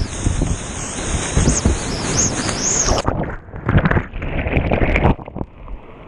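Creek whitewater rushing and splashing around a kayak, with rumbling wind and water buffeting on the microphone. About three seconds in, the sound turns dull and muffled, and it grows quieter near the end.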